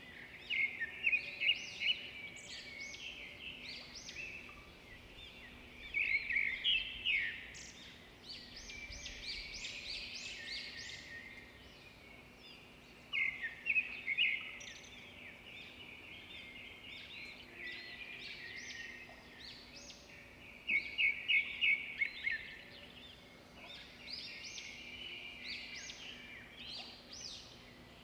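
Small birds chirping and chattering in repeated bursts of quick high notes, with a faint steady hum underneath.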